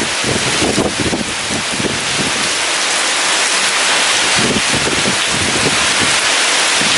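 Heavy rain pouring steadily, with gusts of strong wind swelling in and out.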